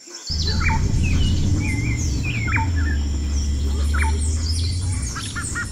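Several birds chirping and calling in short rising and falling notes, with a steady low rumble underneath.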